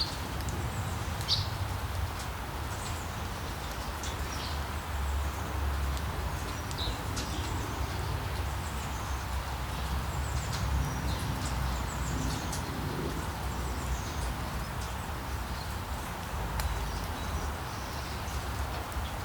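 Steady rain falling, with birds chirping in short, scattered calls over it.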